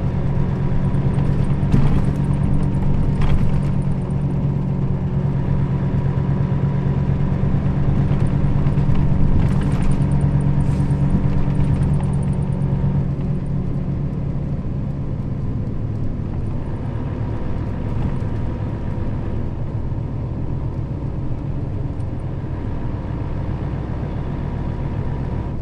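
Nissan Diesel KL-RA552RBN route bus heard from inside the cabin while driving: a steady diesel engine drone that is strong for the first half, then eases off and runs quieter. A few brief hisses are heard early on and again about ten seconds in.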